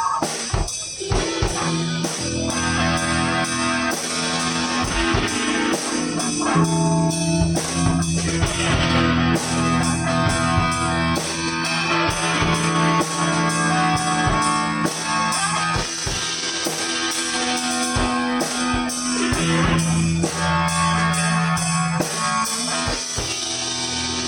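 Live rock band playing without vocals: electric guitar over a drum kit keeping a steady beat.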